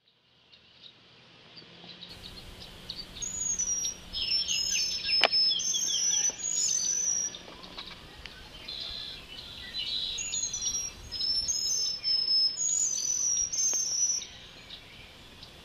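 Small birds chirping and singing in repeated short, high phrases, coming in two bouts, with a single sharp click about five seconds in.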